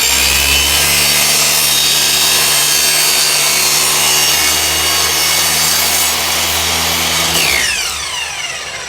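Electric miter saw running and cutting through wood, then switched off about seven and a half seconds in, its whine falling as the blade spins down.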